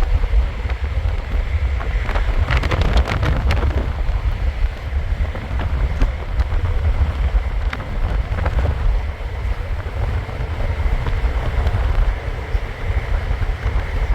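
A car driving, with a steady low road rumble and wind noise on the microphone, and a few sharp knocks and rattles about two to three and a half seconds in.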